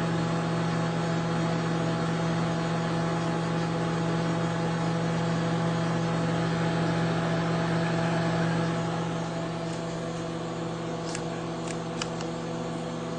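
Microwave oven running with a steady electrical hum while it heats a dish of gummy bears that are melting. It gets slightly quieter about two-thirds of the way through, and a few faint clicks come near the end.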